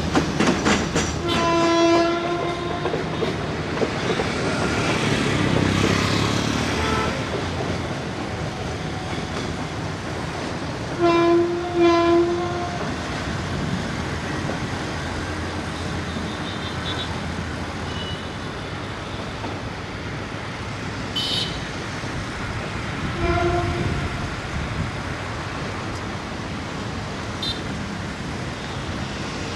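Diesel train's horn sounding in blasts: one about two seconds in, two in quick succession around eleven to twelve seconds, and a short one near twenty-three seconds. Between the blasts the train runs on the track with a steady rumble and some clickety-clack.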